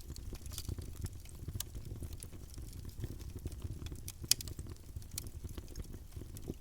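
Campfire burning: wood crackling with many small sharp pops over a low steady rumble of flame, and one louder pop about two-thirds of the way through.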